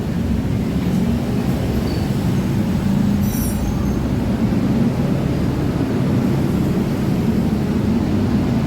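Yamaha Mio Soul scooter's single-cylinder engine running steadily at idle, with its loose intake manifold bolt refitted in a stripped bolt hole.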